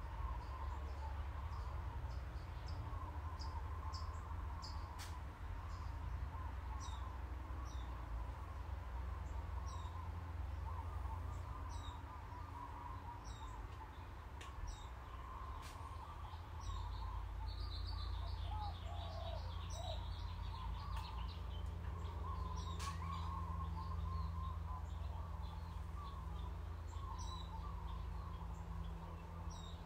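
Birds chirping and twittering: many short, high chirps and a continuous warbling over a steady low hum.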